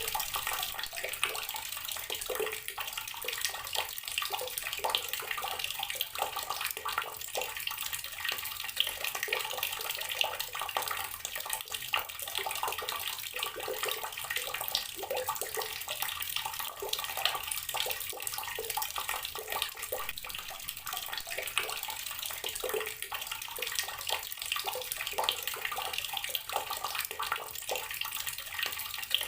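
Water running steadily from an outdoor tap and splashing, a continuous spatter of small droplet splashes.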